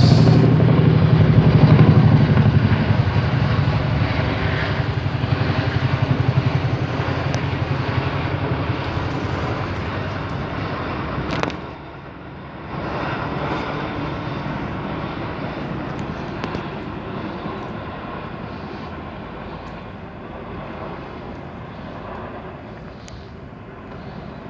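US Army military helicopters (Black Hawks and Chinooks) flying over, with a rapid rotor chop and engine noise that is loudest at first and gradually fades as they pass away.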